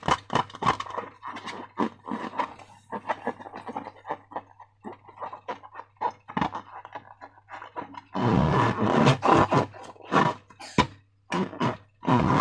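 Slime being squished and kneaded by hand, with irregular sticky clicks and squelches. It turns into longer, denser squelching about eight seconds in and again near the end.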